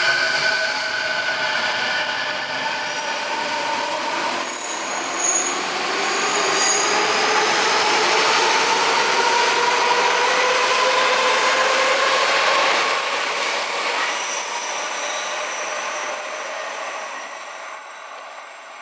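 Odakyu 4000 series electric train pulling away, its IGBT VVVF inverter and traction motors whining in several tones that rise slowly in pitch as it gathers speed over the running noise of the wheels. The sound fades after about 13 seconds as the train moves off.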